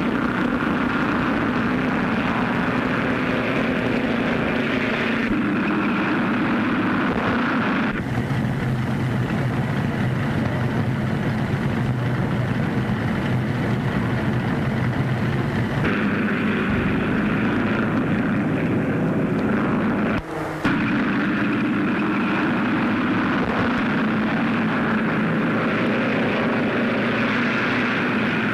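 Racing car engines running at speed in a steady drone, its tone shifting abruptly about a third and two-thirds of the way through, with a brief dropout shortly after.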